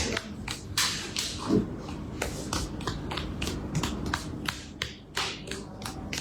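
Quick, irregular light taps and clicks, about three or four a second.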